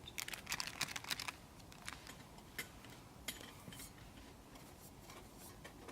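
Faint clicks and light clatter of camp cookware and cutlery being handled: a quick cluster in the first second or so, then a few single clicks.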